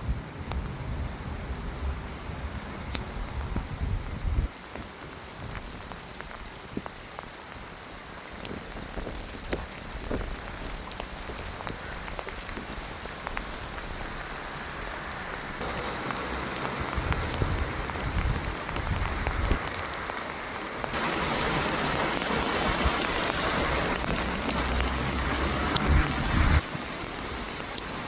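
Rain falling, with scattered drop ticks, growing heavier in steps past the halfway point, then dropping back suddenly near the end.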